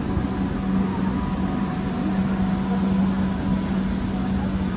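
Steady hum of a Renfe class 130 (Talgo 250) electric high-speed train standing at the platform: a constant low drone over an even rushing noise.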